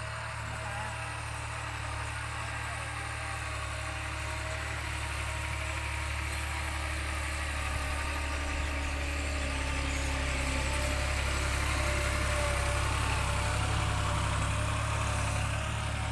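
A steady low engine rumble that slowly grows louder, peaks a little after the middle, then eases off.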